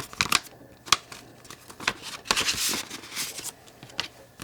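Paper being handled: rustling and crinkling with a few sharp clicks, and a longer rustle a little past halfway.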